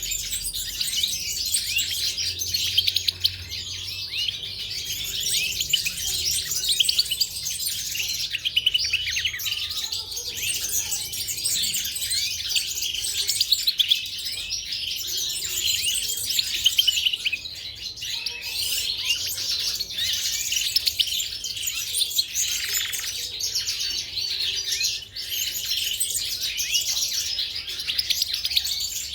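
Caged goldfinches and canaries chirping and twittering together: a dense, continuous chatter of quick high chirps and trills.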